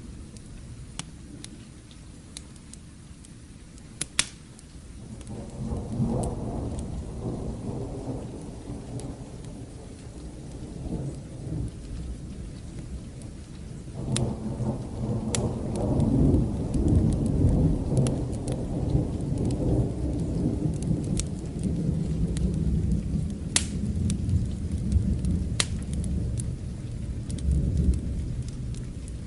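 Steady rain with two long rolls of distant thunder, the first starting about five seconds in and a louder one about halfway through that rumbles on to the end. Sharp crackles and pops of a wood fire sound now and then over it.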